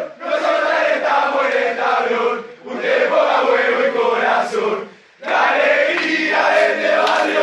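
A group of voices chanting together in repeated phrases about two and a half seconds long, with a brief break between each phrase.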